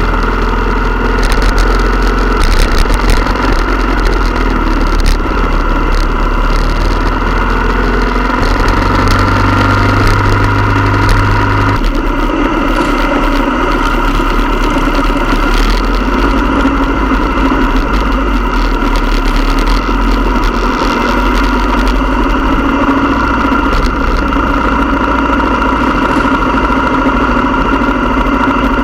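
Motorcycle engine running steadily, its note changing abruptly about twelve seconds in.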